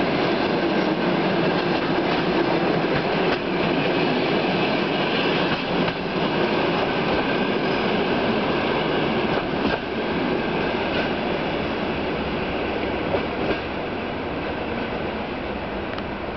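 Passenger train's coaches rolling past on the rails, with scattered wheel clacks over rail joints; the sound slowly fades as the train draws away.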